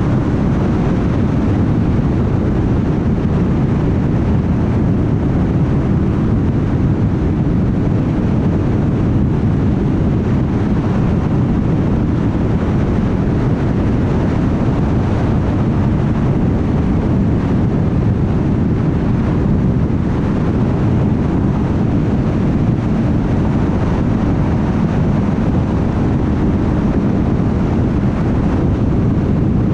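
Steady low road noise of a car cruising on a highway: tyre rumble and engine with some wind, unchanging throughout.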